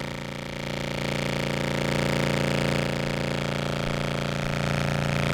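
Contrabass clarinet holding one long low note through an effects-pedal chain with compression, steady and rich in overtones, swelling slightly about a second in.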